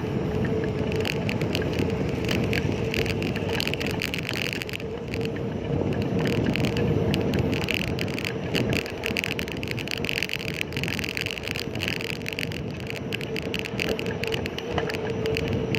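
Bicycle on the move through road traffic: steady tyre and wind noise with a constant hum and a running patter of small rattles.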